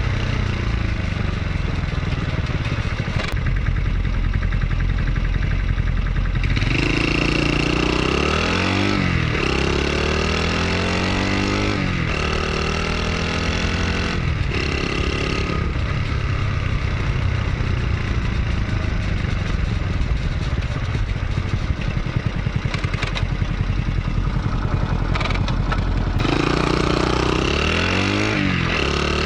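Honda Super Cub's single-cylinder four-stroke engine running under way, its pitch rising again and again as it revs up through the gears, with a few abrupt breaks in the sound.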